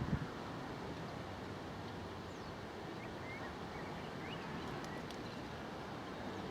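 Steady outdoor background noise with a few faint bird chirps, and a brief low thump right at the start.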